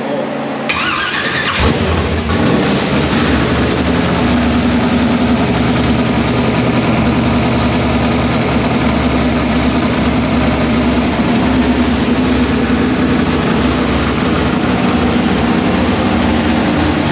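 Rebuilt 305 small-block Chevy V8 with open headers cranking briefly on the starter, catching after about a second and a half, then running loud and steady.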